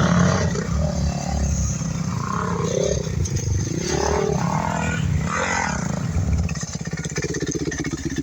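Enduro motorcycle engine running and revving, its pitch rising and falling several times.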